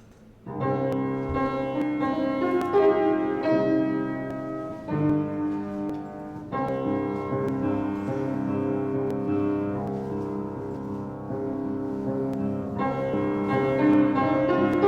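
Piano music begins about half a second in and plays on, held chords changing every few seconds, typical of a service prelude.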